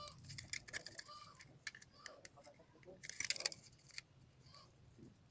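Faint clicks and light rattling of small switchboard parts being handled, with a denser run of clicks about three seconds in.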